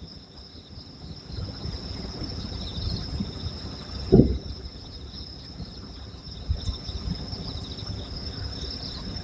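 Insects chirping steadily in a high, even drone under a low rumble, with one short, dull fireworks boom about four seconds in.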